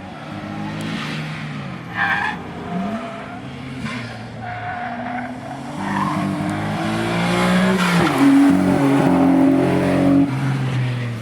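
Nissan Skyline R34 GT-R V-Spec's twin-turbo straight-six being driven hard on track while running with a misfire. The engine note climbs and drops several times and grows louder toward the end before easing off.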